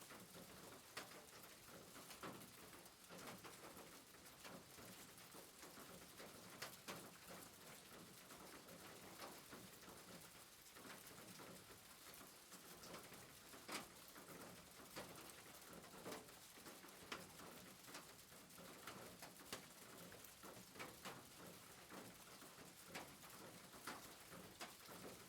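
Faint soft rain: a steady hiss with scattered light drip ticks.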